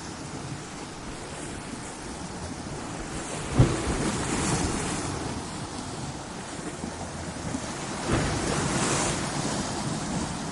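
Ocean waves breaking against coastal rocks: a continuous wash of surf with two waves crashing, a sharp one about three and a half seconds in and another about eight seconds in, each washing away over a couple of seconds.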